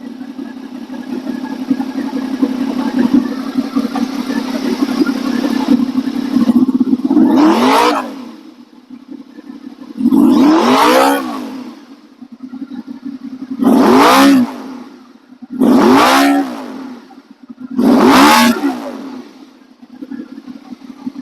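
2008 Honda VFR800's V4 engine idling, then revved with five quick throttle blips, each rising and falling back to idle. This is a freshly swapped-in used engine running on its first start, revving cleanly.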